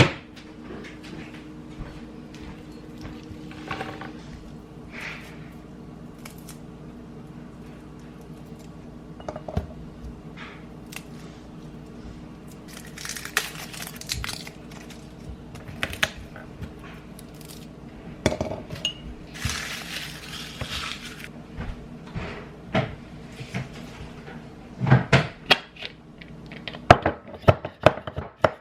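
Dishes and cutlery clinking and knocking in a kitchen over a steady low hum, with two short rushes of noise. Near the end comes a fast, even run of knocks.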